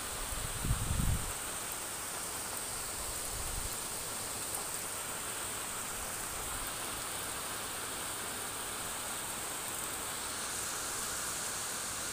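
Steady rain falling, an even hiss with no let-up. About a second in, a brief low rumble of wind or handling noise hits the microphone.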